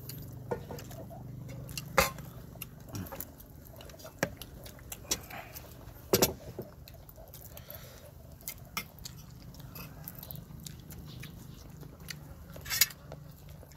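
A person chewing and biting food, with scattered sharp clicks and knocks over a faint low steady hum.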